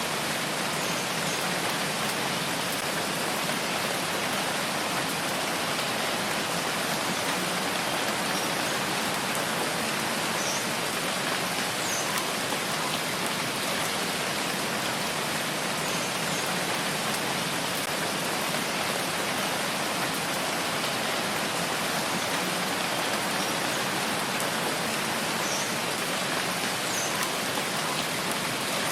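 Steady, even rain, with no change in strength and no thunder.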